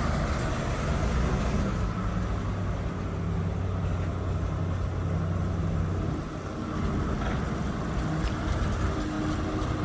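Swapped-in Ford 302 small-block V8 idling steadily, its first run in years. A brighter, hissier sound fades out about two seconds in, and the level dips briefly around six seconds in.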